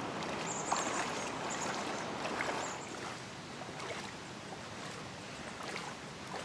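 Steady rushing noise of moving water, with a few faint clicks and knocks.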